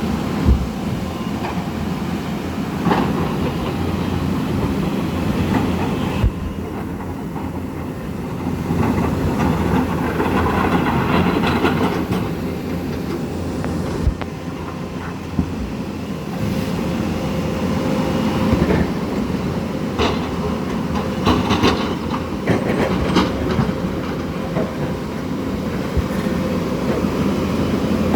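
Floodwater in a swollen river running loud and steady, with scattered sharp knocks through the rush.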